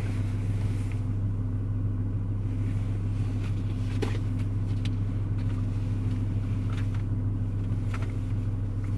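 Car engine idling, a steady low hum heard inside the cabin, with a couple of brief knocks and rustles as things are moved about on the back seat.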